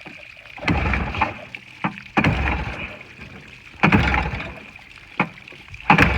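Four pulls on a Yamaha outboard motor's recoil starter cord, each turning the engine over for about a second without it firing. The motor has sat unused for a while and fails to catch.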